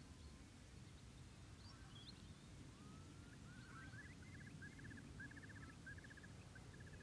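Faint bird calls over a quiet low rumble of open-air ambience: a few high chirps, a rising whistle about three seconds in, then a string of short quick trills repeated several times.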